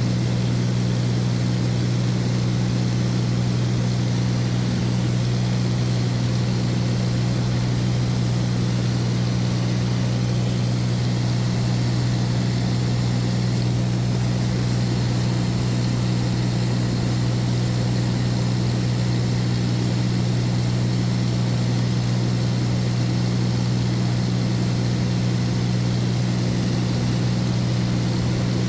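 Light propeller aircraft in flight, heard from inside the cabin: a steady, loud engine and propeller drone with a low hum that holds an even pitch.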